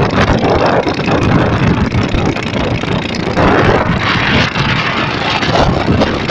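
Loud, gusting storm wind buffeting the microphone, mixed with the steady noise of a river boat's motor.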